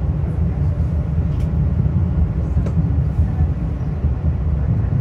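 Steady low rumble and hum of a Metro-North commuter train, with a few faint clicks.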